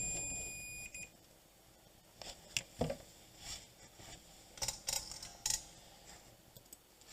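Digital multimeter's continuity buzzer giving one steady high beep that cuts off about a second in, a sign that the probed track is connected. After it come faint clicks and taps of the test probes on the circuit board.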